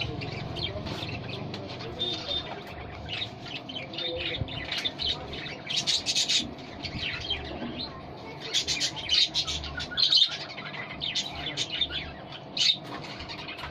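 Pet budgerigars chirping and chattering in a quick run of short, high chirps, busiest about six seconds in and again from about eight to ten seconds in, over a faint steady hum.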